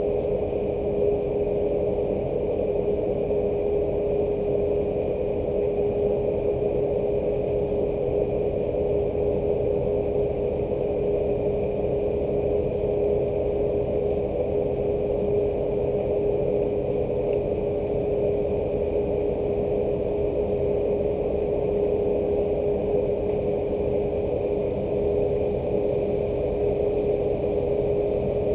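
Steady machine hum: one constant mid-pitched tone over an even, low noise, unchanging throughout.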